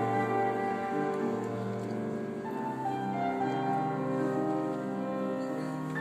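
Flute and piano playing a classical piece, with sustained, overlapping notes.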